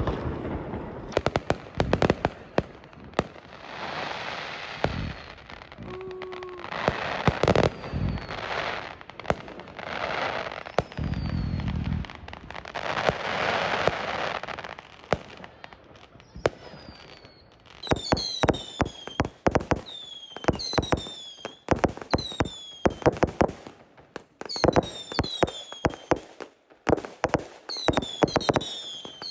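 Fireworks going off: scattered bangs and several-second stretches of crackling. About two-thirds of the way through they give way to a quick, dense series of sharp bangs, many followed by a short falling whistle.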